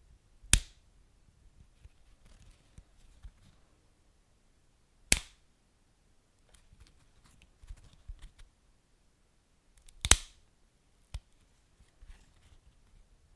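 Wood fire crackling, with faint scattered ticks and a low rumble, broken by three loud sharp pops about five seconds apart and a smaller pop near the end.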